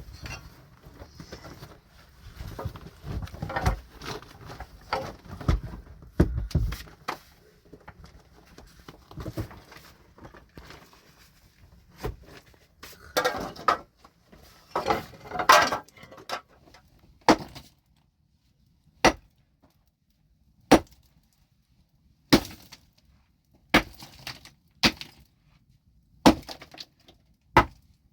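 Metal tool striking rock: scraping and heavy knocking at first, a clatter of stones in the middle, then single sharp strikes about every second and a half, each with a short ring.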